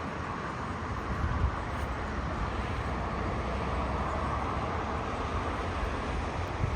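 Steady roar of jet airliner engines at an airport, swelling a little through the middle, over a low rumble of wind buffeting the microphone.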